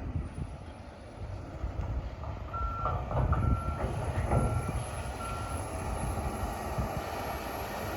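Wheel loader's diesel engine running while its reversing alarm beeps four times, about one beep a second, starting about two and a half seconds in. A few knocks sound among the beeps.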